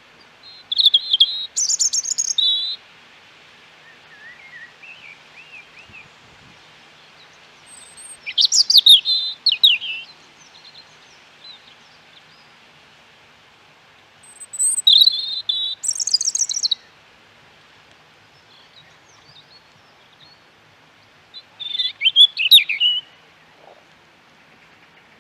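A songbird singing short, quick phrases of high notes, four phrases about six to seven seconds apart, with fainter birds chirping between them.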